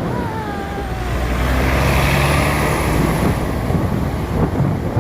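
Bus engine running close by, a steady low hum with a short falling squeal about a second in.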